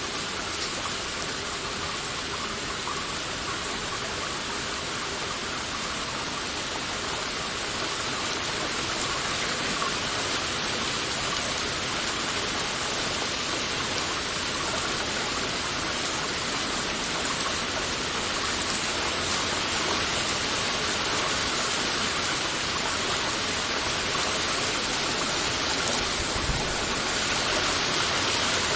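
Heavy rain falling steadily as a dense, even hiss of countless drops, growing slightly louder over the stretch.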